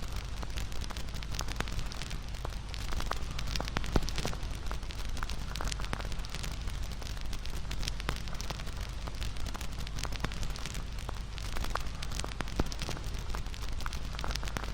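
Wood bonfire crackling and popping: a steady low rush of the flames under many small sharp snaps, with a couple of louder pops, one about four seconds in and one near the end.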